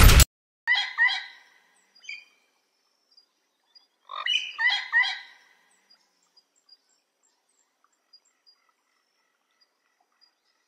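A loud crashing noise cuts off right at the start. Then come bird-like chirps in two short bursts, about one second in and about four seconds in, followed by faint scattered high peeps.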